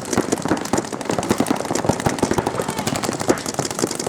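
Several paintball markers firing rapid strings of shots at once, the pops overlapping in a dense, continuous stream.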